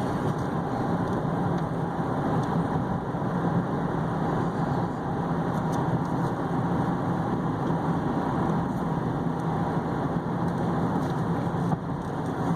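Inside the cabin of a 2015 Chevy Equinox with a 2.4-litre four-cylinder, cruising at near highway speed: a steady, even mix of road and tyre noise with a low drone, with no shimmies or shakes.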